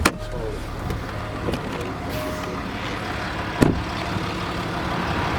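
Range Rover Sport's 3.0 TDV6 turbo-diesel V6 idling steadily, heard from inside the cabin, with two sharp clicks: one at the start and one about three and a half seconds in.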